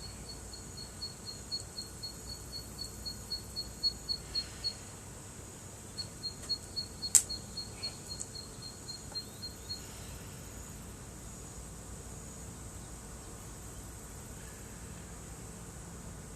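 Outdoor evening ambience: a high chirp repeated about four times a second in two runs, the second ending about ten seconds in, over a steady thin insect trill. About seven seconds in, a single sharp pop from the wood bonfire is the loudest sound.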